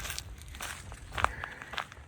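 Footsteps of a hiker walking on a wooded trail, a crisp step about every half second.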